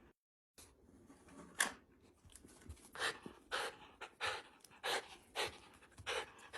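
Shiba Inu dog panting, its breaths coming in a steady rhythm a little under twice a second. A single sharp click about one and a half seconds in.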